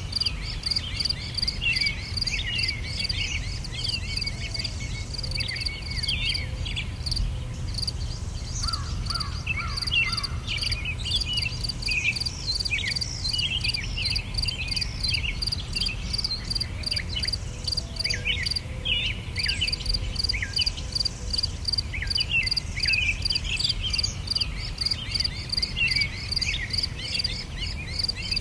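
Natural ambience of many birds chirping in short, quick falling calls over a steady, rapidly pulsing insect trill that breaks off briefly twice, with a low rumble underneath.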